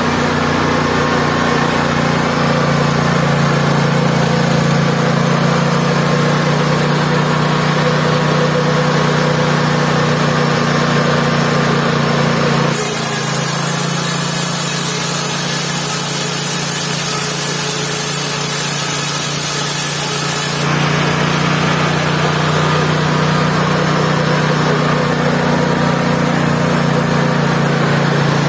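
Mobile band sawmill running, its engine going at a steady speed. For about eight seconds in the middle a loud high hiss joins the engine, then stops.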